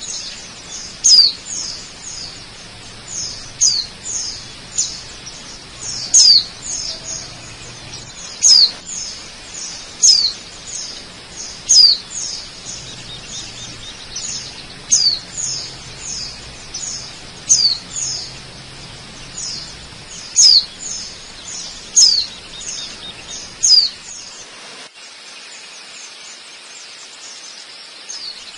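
Birds calling repeatedly, each call a short, sharp whistle falling in pitch, about one a second, over a steady background hiss whose low rumble drops away near the end.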